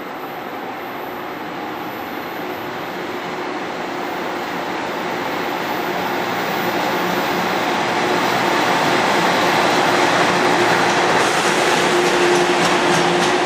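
JR Freight train behind an ED76 electric locomotive approaching on the rails. Its running noise and a steady electric hum grow louder over about ten seconds, then hold, with the first wheel clicks coming in at the very end.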